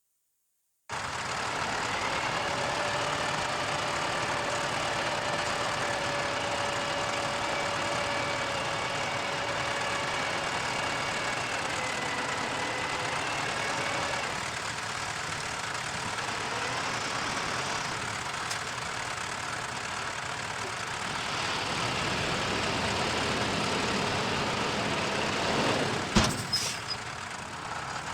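Heavy earthmoving machinery's diesel engine running steadily, starting about a second in, with a steady whine over it for the first half. A sharp clunk comes about 26 seconds in.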